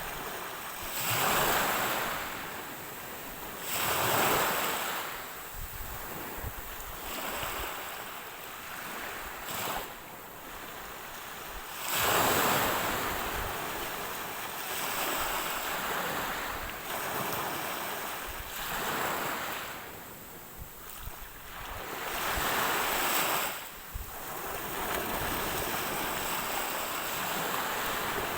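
Ocean waves breaking and washing ashore, swelling into louder surges every few seconds, the strongest about a second, four seconds and twelve seconds in.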